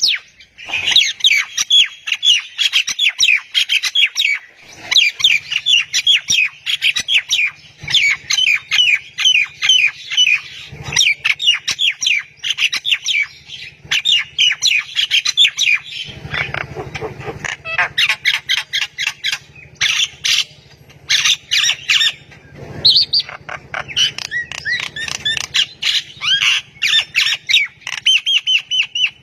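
A songbird singing a fast, continuous run of sharp, high notes, broken by short pauses.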